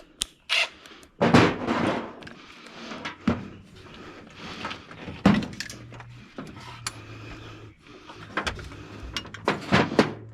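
Metal clanks and knocks of hand tools, a socket extension and ratchet being fitted and worked on bolts, with a longer scraping rustle about a second in. A low steady hum sets in about six seconds in.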